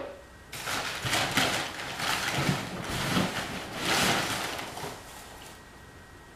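Packaging being handled during an unboxing: several short bursts of rustling and scraping in the first few seconds, then it goes quieter.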